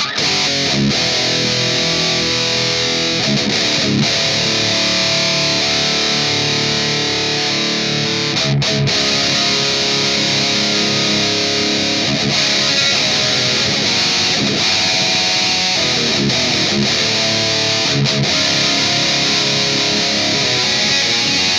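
Distorted electric guitar playing heavy riffs through an overdriven amp, starting suddenly out of silence.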